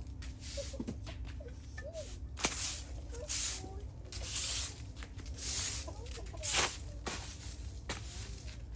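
Chickens clucking in short calls, with several short hissing swishes about half a second each at irregular intervals over a low steady hum.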